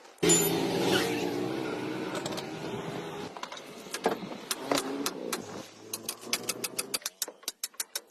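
A motor or engine starts suddenly and runs with a steady pitched sound that weakens about three seconds in and stops near the end, over a rapid, regular clicking that keeps going around it.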